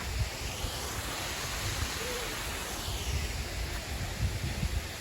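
Rushing water of a pipe-fed artificial waterfall, a steady hiss, with wind buffeting the microphone in low, uneven gusts.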